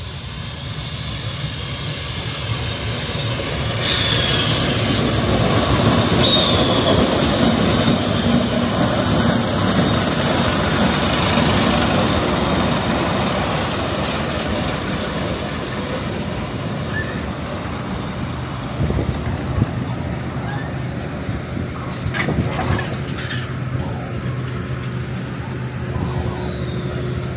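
Passenger train pulling into a station. The wheels run on the rails and the brakes give short falling squeals, and it is loudest as the coaches pass, about seven to twelve seconds in. Once the train has stopped, a steady low hum of the locomotive's engine remains.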